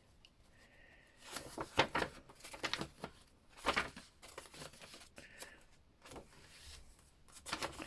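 Paper and card rustling and crinkling as journal pages, tags and cards are handled and pulled from a pocket, with several short sharp flicks spread through.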